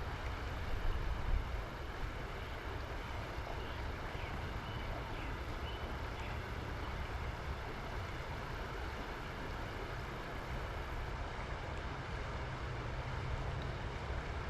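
Steady outdoor noise of running creek water, with wind rumbling on the microphone.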